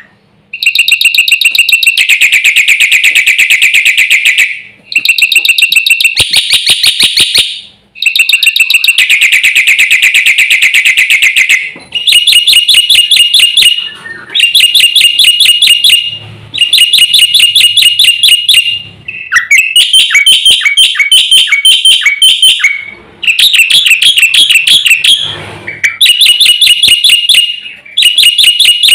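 Jalak putih (black-winged starling) singing in full song: loud bursts of rapid, evenly repeated chattering notes, each lasting a few seconds with brief pauses between. The song is packed with imitated calls of other birds.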